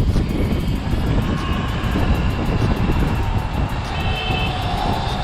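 Wind rushing and buffeting on the microphone while riding an electric dirt bike, with a short high-pitched tone about four seconds in.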